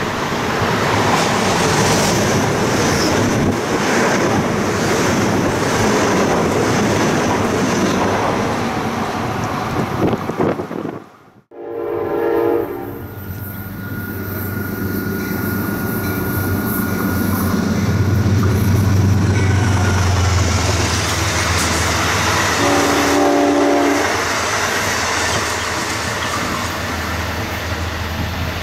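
Amtrak passenger train passing a station: the diesel locomotive sounds two short horn blasts, one a little under halfway in and one near the end, with a deep engine rumble between them over steady wheel and rail noise as the coaches go by. Before that there is a loud rushing noise that cuts out abruptly about eleven seconds in.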